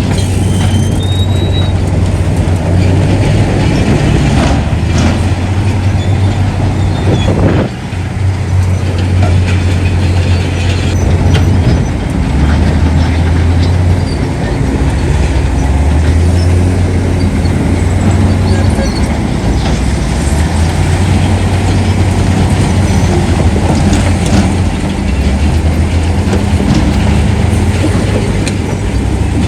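Heavy diesel earthmoving machinery working: a loud, low engine drone that shifts in pitch every few seconds as the engines load and ease off, over a noisy mechanical din with occasional clanks.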